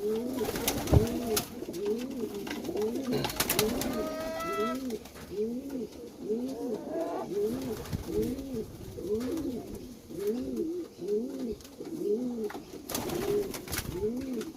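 Domestic pigeons cooing, a steady run of repeated rising-and-falling coos at about one to two a second, with a few small knocks and a short higher call about four seconds in.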